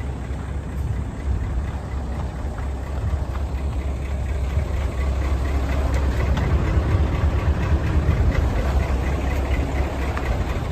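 Mitsubishi Fuso Super Great dump truck's 8DC11 V8 diesel engine running with a steady, deep diesel clatter. It grows somewhat louder partway through.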